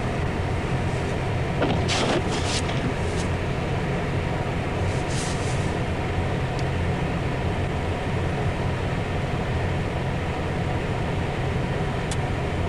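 Steady low drone inside a car's cabin, with the engine and the heater fan running, and a few short swishes in the first few seconds.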